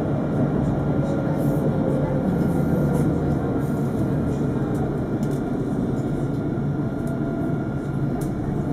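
Alstom Citadis 402 tram running along the line, a steady rolling rumble with a faint, steady high whine above it.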